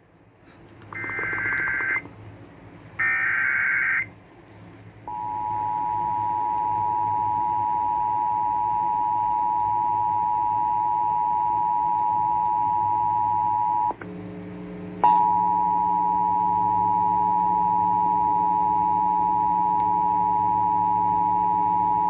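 Emergency Alert System broadcast tones. It opens with two short screechy bursts of the SAME digital data header, then the steady two-tone EAS attention signal (853 and 960 Hz). The attention signal breaks off for about a second partway through and resumes with a low hum beneath it.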